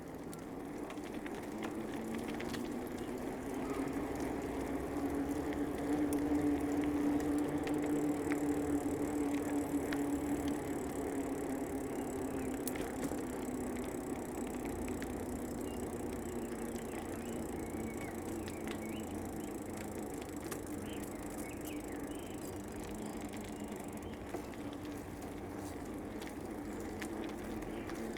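A bicycle rolling along a paved path: tyre and drivetrain noise with a steady hum that rises a little in pitch over the first several seconds and then slowly sinks.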